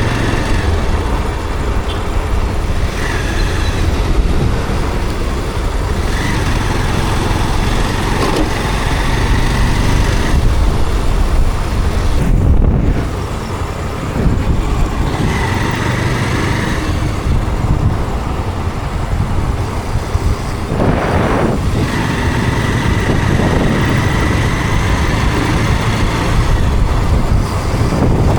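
Motorcycle ridden through city traffic: steady engine and road noise with surrounding traffic, and a brief louder rush about three quarters of the way through.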